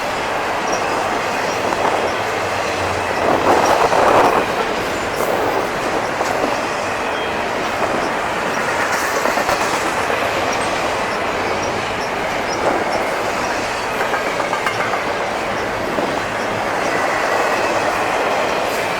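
Cars of an intermodal freight train, double-stack and piggyback, rolling past close by: a steady rumble and clatter of wheels over the rail joints, with a louder stretch about three to four seconds in.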